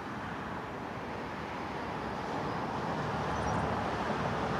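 Cars passing on a highway: a steady traffic noise that grows gradually louder as vehicles approach.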